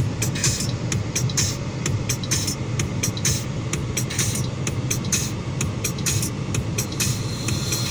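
Steady low hum of a car engine idling, heard from inside the cabin, with a quick, even ticking beat over it.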